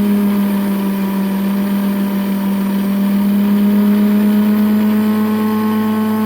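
Rose engine's universal cutting frame spinning, driven by an electric motor through an overhead belt drive: a steady hum whose pitch creeps up slightly.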